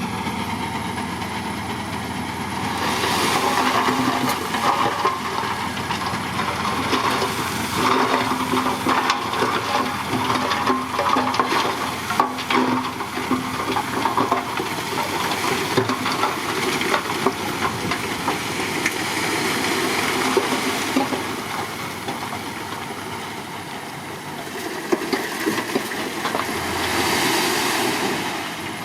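Crawler bulldozer working: the diesel engine runs steadily under a dense metallic clatter of the tracks, louder around four seconds in and again near the end.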